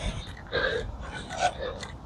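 Soft, indistinct voice sounds: a few short murmured syllables or breathy vocal noises, with no clear words.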